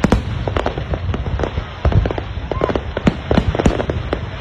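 Aerial fireworks shells bursting high overhead: many sharp bangs and cracks in quick, irregular succession over a continuous low rumble.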